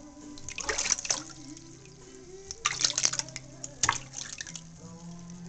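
Water splashing and dripping in a few short bursts as a small pet bird is rinsed over the top of its head by hand in a shallow warm-water bath.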